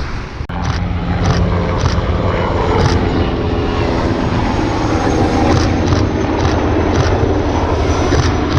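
Military helicopter flying close, a loud rotor and turbine rumble with a steady whine of several tones over it, cutting in abruptly about half a second in.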